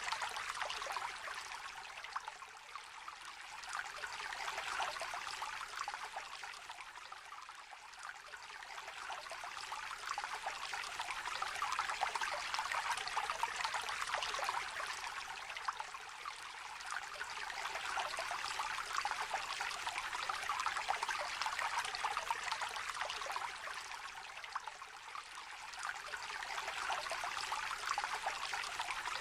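A small river trickling and babbling over stones, a steady shallow-water murmur that swells and eases slightly every several seconds.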